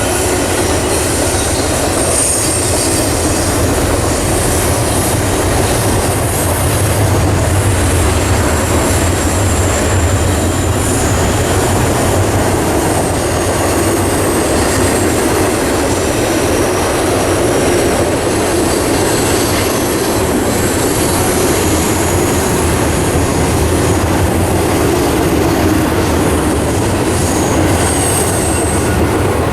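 Train rolling past close by: a steady rumble of wheels on the rails, with high wheel squeals that come and go.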